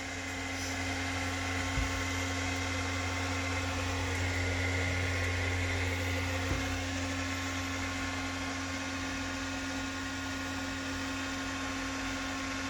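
Inverter-driven 5-horsepower groundwater pump motor and its inverter cooling fan running with a steady hum, the water valve just closed.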